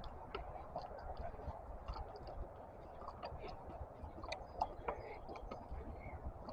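Faint chirping of small birds, with a low rumble and a few light knocks from a camera in a protective case carried by someone walking briskly.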